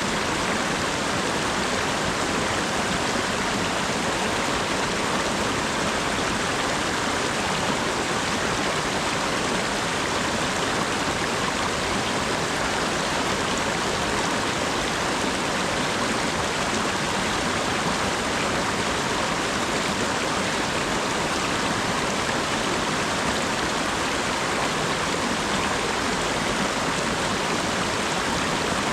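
Steady rain falling: an even, unbroken hiss with no distinct drops or other events.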